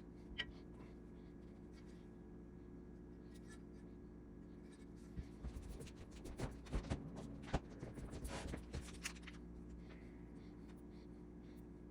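Light scraping and clicking from small parts or tools being handled, clustered about five to nine seconds in, over a steady low hum.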